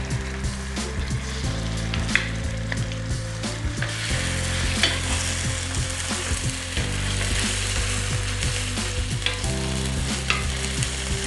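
Chopped onion, spring onion and ginger-garlic paste sizzling in hot oil in a frying pan, stirred with a wooden spoon that scrapes and clicks against the pan. The sizzle gets fuller about four seconds in.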